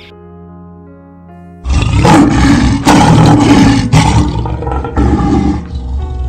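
A large animal roaring loudly in about four surges roughly a second apart, starting suddenly about a second and a half in over soft background music.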